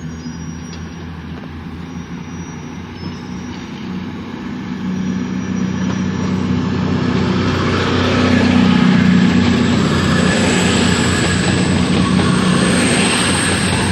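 Diesel train running through the station, its engine hum and wheel noise growing louder about halfway through as it draws near, then holding steady.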